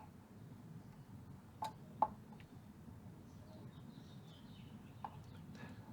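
Quiet room tone with faint birds chirping outside an open window, and a few small clicks of pliers and tools on the amp chassis while a solder joint is heated.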